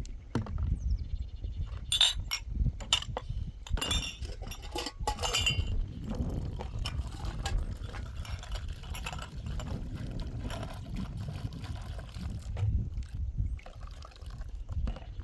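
A run of light clinks and knocks, like small hard objects being handled, over a steady low rumble; the clinks thin out after about six seconds.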